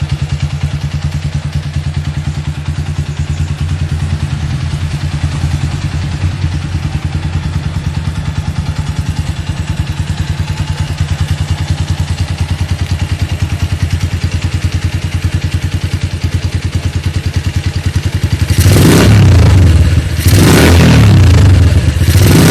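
Motorcycle with a custom aftermarket muffler idling with a steady low pulse, then blipped hard three times near the end. The revs are loud enough to overload and distort the phone's microphone.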